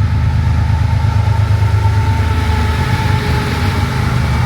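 BNSF diesel-electric locomotives passing close by under load, pulling an intermodal train uphill: a loud, steady low engine rumble with a steady whine above it.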